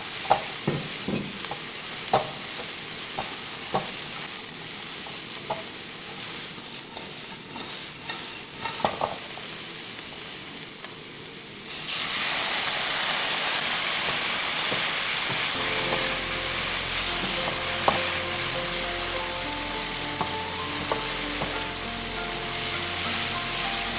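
Cauliflower and tofu stir-frying in a nonstick pan: a silicone spatula scrapes and taps through the pieces over a steady sizzle. About twelve seconds in, the prepared sauce is poured in and the sizzle jumps suddenly louder and hissier, and soft background music comes in a few seconds later.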